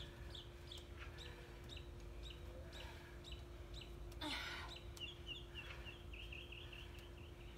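A small bird chirping over and over, about three short falling chirps a second, breaking into a quicker run of chirps past the middle. A short burst of hiss comes a little past halfway, over a faint steady hum.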